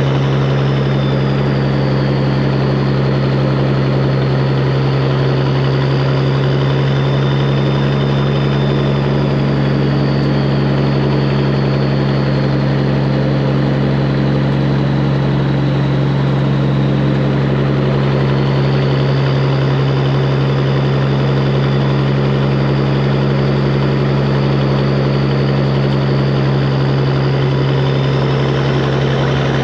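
Straight-piped Peterbilt 389 semi truck's diesel engine running steadily at an unchanging pitch, with a deep, even exhaust note.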